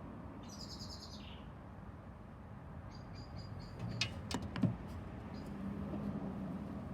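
High-pitched chirping, as of a small bird, about half a second in and again in short bits around three seconds in. A few sharp clicks or knocks follow just after four seconds, over steady low background noise.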